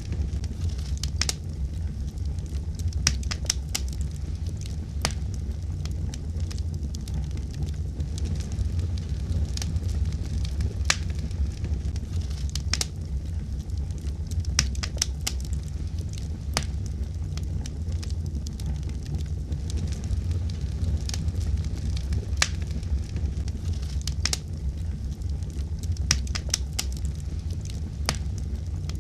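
Fire burning in a fireplace: a steady low rumble with frequent, irregular crackles and pops.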